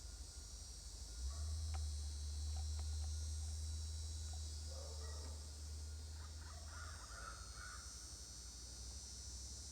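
Outdoor ambience: a steady high insect chorus, with a bird calling a few times in the second half. A low rumble runs under it for the first several seconds.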